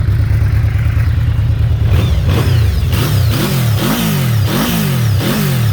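2019 Yamaha VMAX's 1,679 cc V4 engine running on its stock exhaust, steady at first, then revved in about four or five quick throttle blips about two seconds in, the engine speed jumping up and falling back each time.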